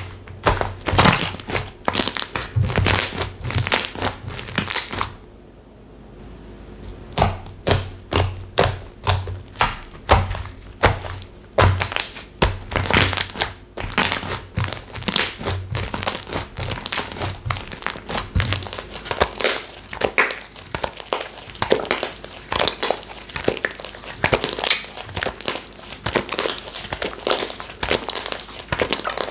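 Textured slime being squeezed and pressed by hand, giving an irregular run of crackling, popping clicks, with a short pause about five seconds in.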